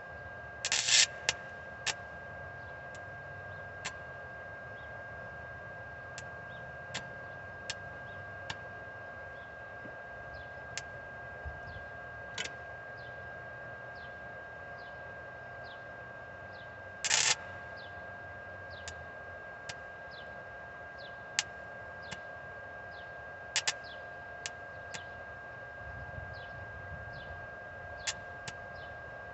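Welder tack welding: three short bursts of crackling arc, each about half a second, with scattered sharp clicks over a steady hum.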